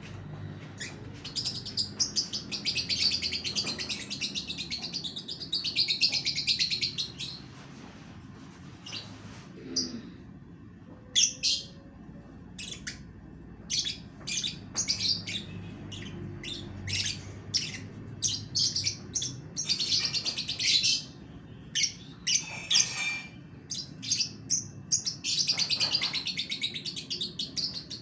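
Young Nyasa lovebird chattering freely, the vocal 'bocor' singing that keepers prize. Long runs of rapid high chirps alternate with single sharp chirps.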